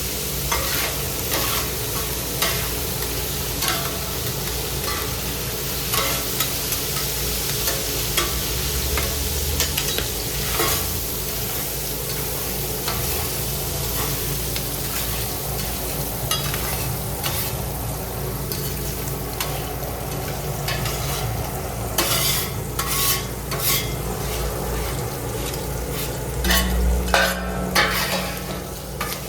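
Food frying and sizzling with a steady hiss, broken by scattered sharp clicks and knocks that come more often in the last several seconds.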